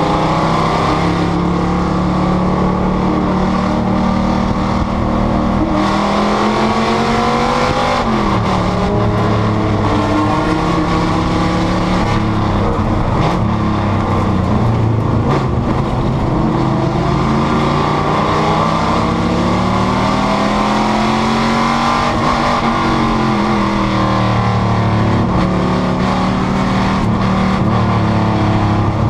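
Panoz GTS race car's V8 engine running hard under racing load. Its pitch climbs and drops repeatedly as the car accelerates, shifts and brakes through the corners.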